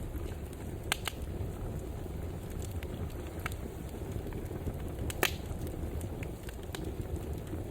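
Wood fire burning in a fireplace: a steady low rumble of the flames with scattered sharp pops and crackles, the loudest two about a second in and about five seconds in.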